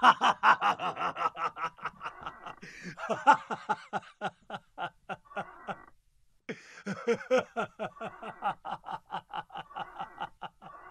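Men laughing hard in a fast run of ha-ha-ha pulses, about four to five a second. The laughter stops briefly about six seconds in, then starts up again.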